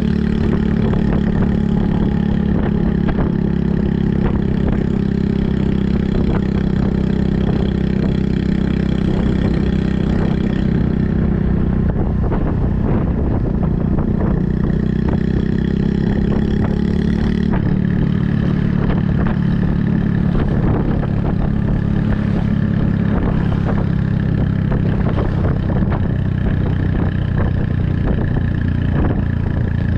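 Honda Super Cub 110's single-cylinder four-stroke engine running under way through a Kitaco mini Caborn aftermarket muffler. The engine note holds steady, then shifts about a third of the way through and again a little past halfway.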